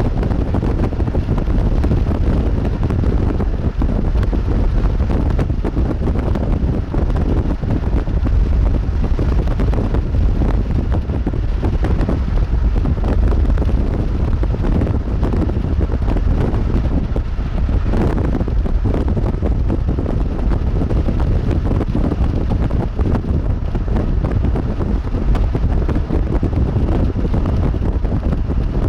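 Strong wind buffeting the microphone: a loud, steady low rumble of wind noise with no breaks.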